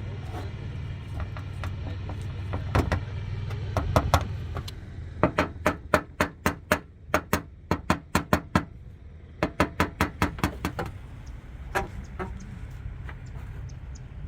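A small hammer tapping on a car's dented fender, reshaping the metal: quick sharp knocks in runs of about three or four a second, with a pause between runs, over a steady low hum.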